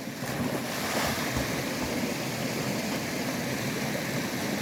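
Steady rush of running water, an even noise with no distinct splashes or knocks.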